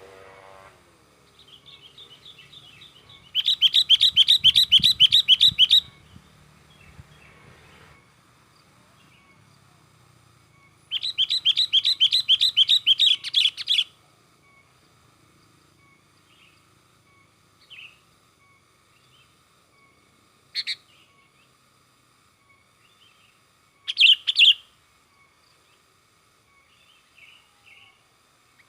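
Sooty-headed bulbul (kutilang) giving excited, agitated chatter. Two long runs of fast repeated notes come several seconds apart, followed by a few short single calls.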